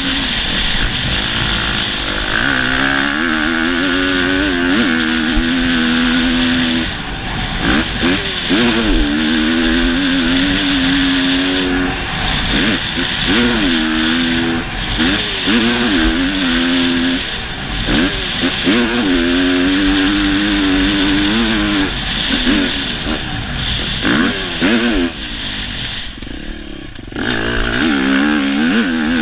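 Motocross bike engine revving hard, its pitch climbing, holding and dropping again and again as the throttle is worked through the track. It falls away briefly near the end, then picks up again.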